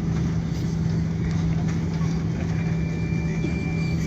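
Steady low hum and rushing air inside an Airbus A340 cabin after landing, with a faint thin high whistle in the second half.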